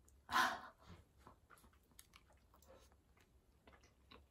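Someone eating a soft cream-filled donut: a short vocal sound about half a second in, then quiet chewing with small wet mouth clicks.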